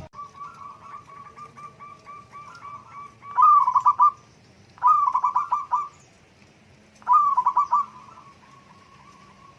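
Zebra doves (perkutut) cooing: a steady run of soft, short, repeated notes, broken three times by louder bursts of rapid notes.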